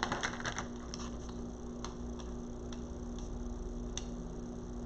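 A few scattered light clicks and taps, spaced irregularly, over a steady low hum.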